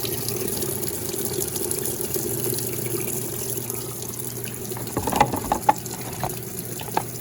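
Water running steadily into a small washing machine's tub, with a few light knocks about five seconds in and again near the end.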